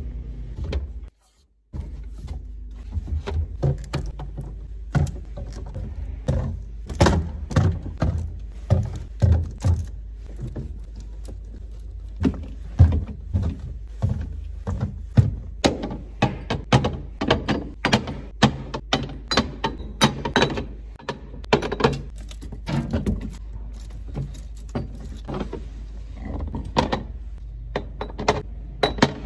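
Groceries and containers being handled and set down while a refrigerator is stocked: a long run of irregular knocks, taps and clatters, with a short break about a second in.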